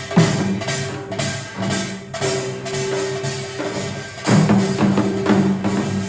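Korean traditional (gugak) ensemble music played live: held, sustained notes over struck percussion, with sharp strikes just after the start and again about four seconds in.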